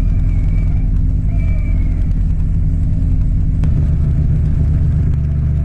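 Rotax 912 flat-four engine of a Slipstream Genesis ultralight running steadily at low power. A sharp click comes about three and a half seconds in, after which the engine note shifts.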